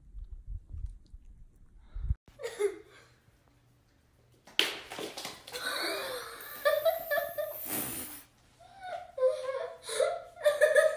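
A person laughing hard and breathily, starting about four and a half seconds in and coming in bursts, with high-pitched laughing sounds near the end.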